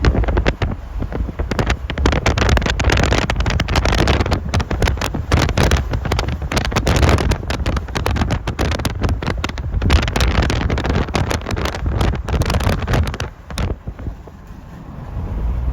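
Strong gusting wind buffeting the microphone, a loud rough rush with rapid crackling, easing off about thirteen seconds in.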